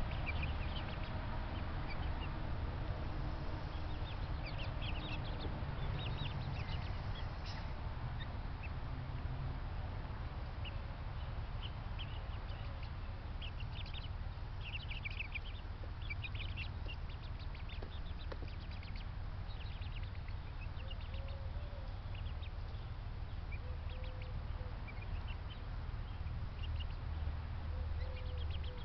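Backyard poultry calling on and off, short calls scattered throughout, over a steady low rumble.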